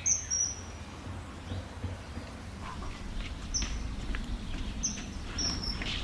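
A bird chirping: short, high chirps, a pair right at the start and then three more spaced out through the second half, over a low steady rumble.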